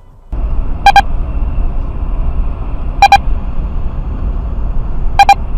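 Steady car road and engine noise from a dashcam, with a short electronic double beep repeating about every two seconds, three times.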